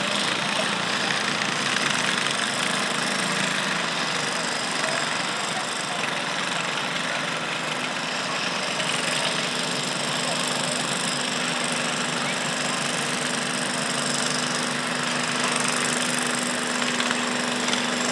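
Garden tractor engine running steadily, with a steady hum that grows clearer in the second half.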